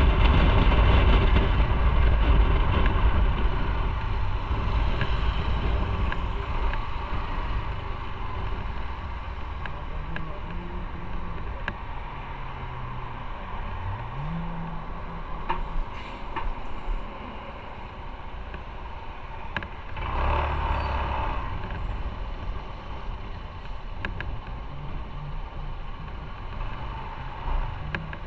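Motorcycle ride heard from on the bike: the engine running under a steady rush of road and wind noise, heaviest at the start and easing off. About halfway through, the engine note rises as the bike accelerates, and a short swell of noise comes about two-thirds of the way in.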